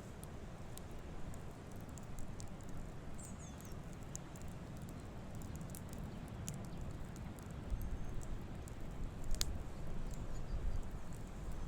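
Campfire crackling, with scattered sharp pops and one louder pop about nine seconds in, over a low rumble that grows louder near the end.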